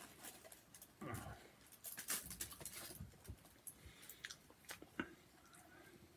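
A person chewing and biting into a bread-wrapped kebab: quiet, scattered wet mouth clicks and smacks, with a few sharper clicks.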